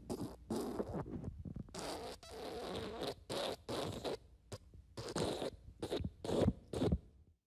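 A run of about fifteen short, raspy fart sound effects in quick succession, the later ones shorter and more spaced out, stopping just before the end.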